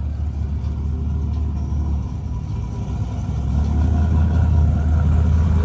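Motor vehicle engine running at low speed with a deep rumble, growing louder over the second half.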